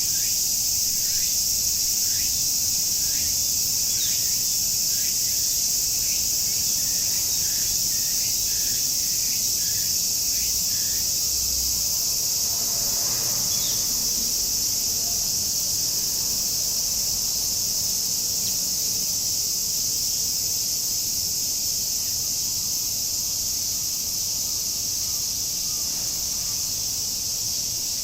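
Steady chorus of cicadas shrilling in a Japanese summer, a high continuous buzz. For roughly the first third a bird repeats a short falling call note about twice a second, then stops.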